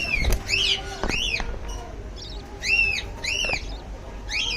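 Lovebirds calling: about six separate high-pitched calls, each rising and then falling in pitch, with a single sharp click just after the start.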